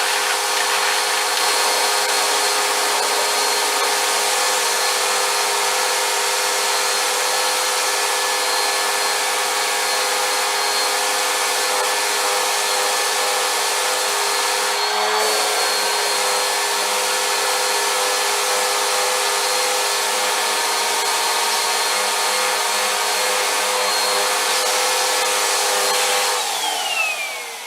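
Vacuum cleaner motor running steadily with a constant whine, its suction sound briefly changing about halfway through. Near the end it is switched off and the motor winds down with a falling whine.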